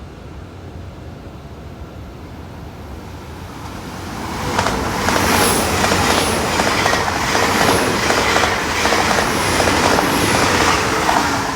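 A Great Western Railway passenger train passing along the platform. Its sound builds from about four seconds in, then wheels clatter rhythmically over rail joints with about five brief high-pitched wheel squeals, and it drops away just before the end.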